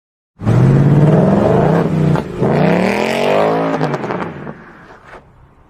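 A car engine revving hard, its pitch rising and falling twice, then fading away from about four and a half seconds in.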